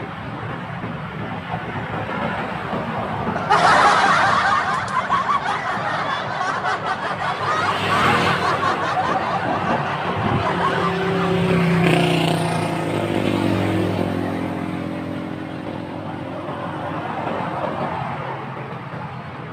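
Road and wind noise on a bicycle ride, with motor vehicles passing. A loud rush sets in about three and a half seconds in and fades over several seconds. Later an engine's hum slides down in pitch as it goes by.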